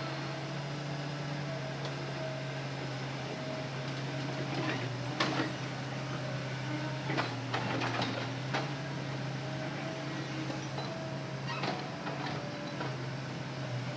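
Hitachi Zaxis excavator running steadily while loading logs, its engine drone overlaid by a hydraulic whine that comes and goes. Several sharp knocks, clustered from about five to nine seconds in and once more near the end, come from the load being worked.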